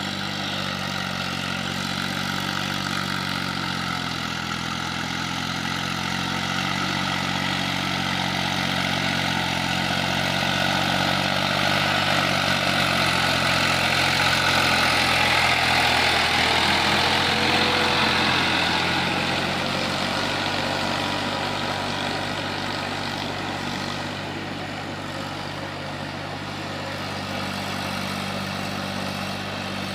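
Eicher 480 tractor's diesel engine running steadily, a low even engine note with rattle and hiss above it; it grows louder toward the middle, then eases back.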